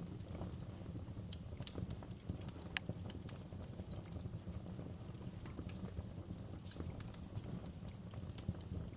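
Wood fire crackling: irregular sharp pops and snaps, several a second, over a low steady rumble of flames.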